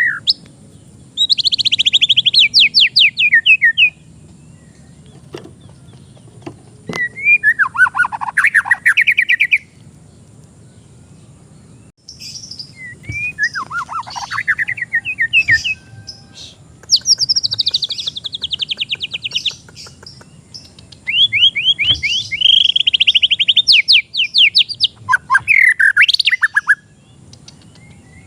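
White-rumped shama (murai batu) singing: about six phrases of rapid, sweeping trills with short pauses between them.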